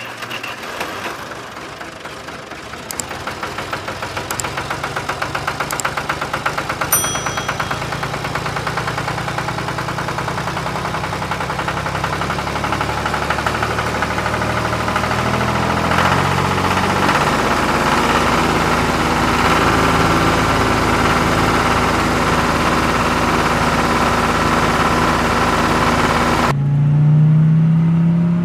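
Diesel tractor engine running, its knocking beat quickening over the first half, then a steady drone. Near the end it cuts off suddenly, and a different droning tone rises and then falls.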